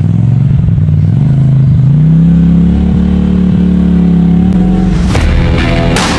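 Side-by-side UTV engine revving hard on a hill climb: its pitch rises about a second in, holds high, then falls away near the end, with a few sharp knocks in the last second.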